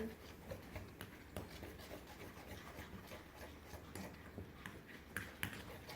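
Faint rubbing and scattered small clicks from slime and utensils being handled, with a couple of sharper clicks about five seconds in.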